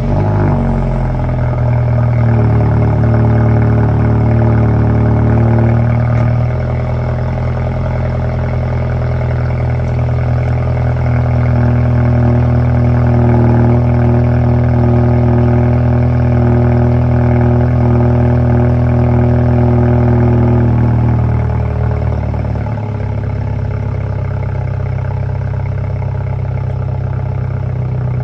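2017 BMW 430i's 2.0-litre B48 turbocharged four-cylinder, straight-piped by a muffler and resonator delete, running at a cold-start fast idle: a loud, steady drone that steps down in pitch about six seconds in and again about twenty-one seconds in as the idle settles.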